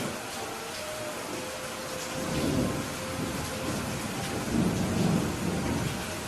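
Steady rain falling, with low thunder rumbling up twice, about two seconds in and again near the five-second mark.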